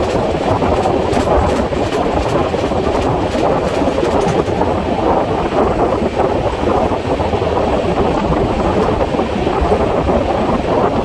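Moving passenger train's running noise, a loud, steady rush and rumble of wheels on rail, sped up to twice normal speed. A run of rapid clicks sounds over the first four seconds or so.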